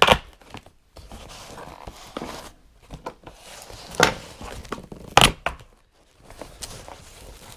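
Packaging being torn open and handled: wrapping crinkling and tearing, with three sharp clicks or knocks, one at the start, one about four seconds in and one just after five seconds.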